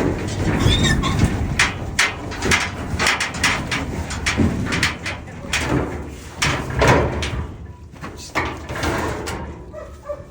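Livestock moving inside a metal stock trailer while its gate is worked: a long, irregular run of knocks, clanks and rattles from hooves and metal panels.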